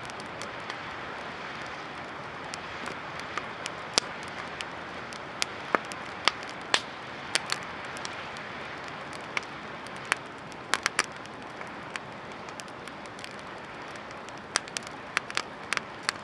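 A wood campfire burning, with irregular sharp crackles and pops over a steady hiss.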